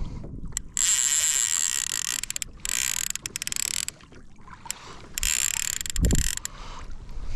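A fishing reel's drag screaming in three long spells as a hooked yellowtail kingfish runs and strips line, with short pauses between the runs.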